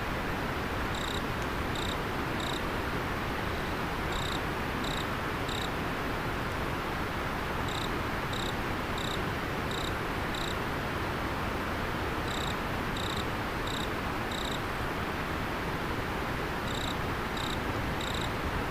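Steady rush of flowing river water, with a cricket giving short high chirps about two-thirds of a second apart, in runs of three to six, pausing between runs.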